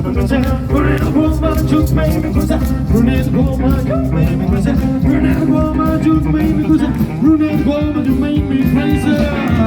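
Rockabilly band playing live: guitar over a steady drum beat. Just at the end the beat stops and a held chord rings on.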